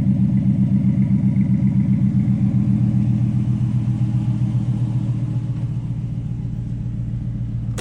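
Exhaust of a 2017 Ram 1500 pickup idling: a steady deep rumble with an even, rapid pulse, easing off slightly in loudness over the second half.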